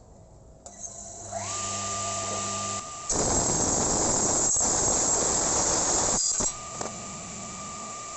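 Handheld electric woodworking power tool starting up with a rising whine that levels off to a steady high tone. From about three seconds in it cuts into wood with a loud, rough noise. About six and a half seconds in the noise eases and the motor runs on freely.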